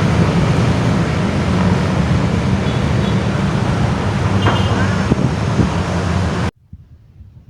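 Train passing close by: a loud, steady rumble of wheels and running gear that cuts off suddenly near the end.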